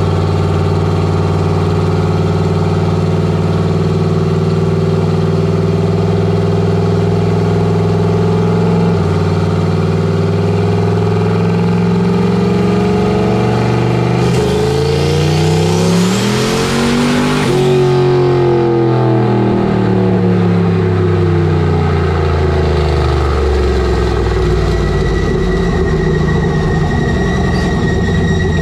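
Turbocharged 5.3-litre V8 truck engine running, then accelerating hard about halfway through, with a thin whistle climbing over it, and falling back as the throttle comes off. A steady high whine comes in near the end.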